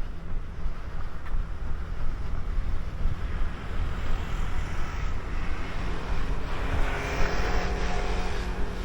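Wind rumbling on the microphone while running outdoors, with the engine noise of a passing vehicle swelling up through the second half and peaking near the end.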